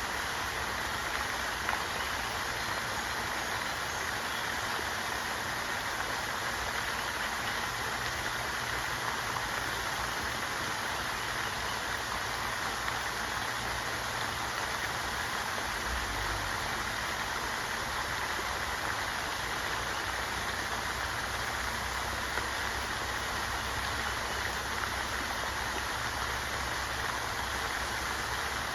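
Steady rushing water noise, the even hiss of rain or a stream, with a low rumble underneath that grows stronger about halfway through.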